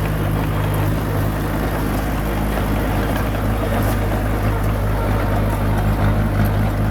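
Komatsu bulldozer's diesel engine running steadily under load, with an even, constant low engine hum.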